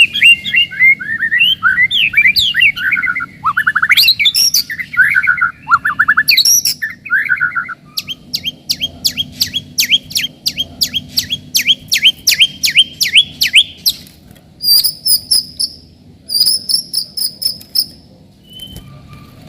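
White-rumped shama (murai batu) singing: varied, fast warbled phrases for the first several seconds, then a rapid run of repeated sharp, downslurred notes at about three a second, then shorter high trilled notes before it grows quieter near the end.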